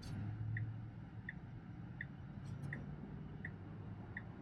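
Tesla Model X turn-signal indicator ticking steadily inside the cabin, about one and a half ticks a second, while the car waits to turn left. A low hum runs underneath.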